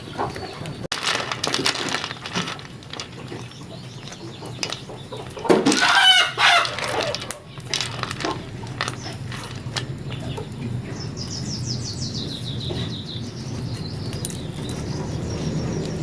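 Chickens clucking, with a rooster crowing loudly about six seconds in.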